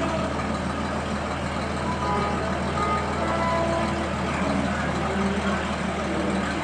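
Heavy truck engine idling steadily, a continuous low drone, with a few short high tones over it.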